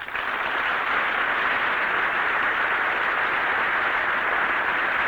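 Steady radio static: an even, unbroken hiss with no tone in it and the top end cut off, coming in suddenly after a moment of silence.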